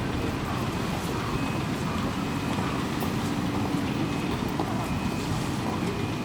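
Steady road traffic noise from a busy city avenue, mixed with strong, gusty wind rumbling low on the microphone.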